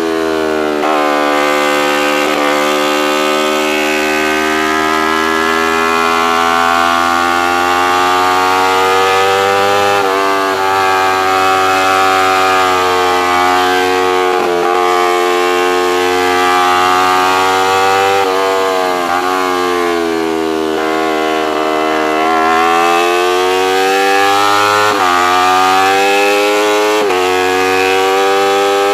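Racing motorcycle engine at high revs, its note rising and falling with the throttle through the corners and broken by several quick gear changes.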